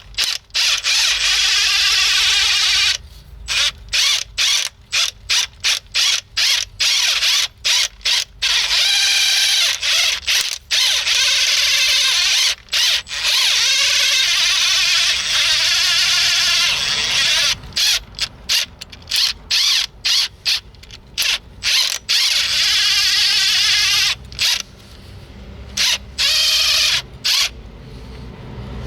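Hand ratchet with a socket on a car's front ball joint, turning the freshly greased joint back and forth: long runs of rasping ratchet clicks broken by many short stop-start strokes. The joint is being worked to spread the grease and stop its squeak.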